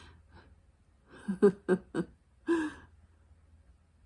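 A woman's voice making a few short unworded vocal sounds, a quick cluster about a second in and one more halfway through.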